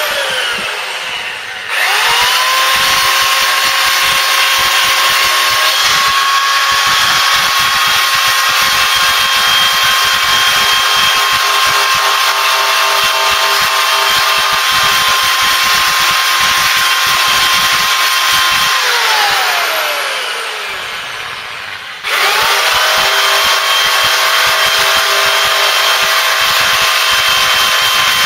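Power tool spinning a wire wheel, scrubbing rust off the metal of an old Briggs & Stratton engine to uncover its stamped model and code markings. It spins up, runs steadily, winds down with a falling pitch about two-thirds of the way in, then starts again and runs on.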